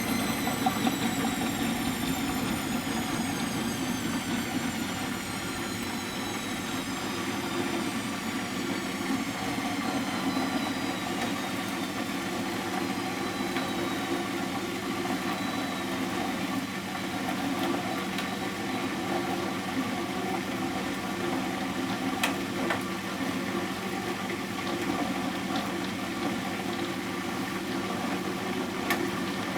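1993 Miele Professional WS 5426 commercial washing machine running. A motor whine with several overtones falls slowly in pitch and fades out over the first half, over a steady hum and rumble. Two sharp clicks come late on.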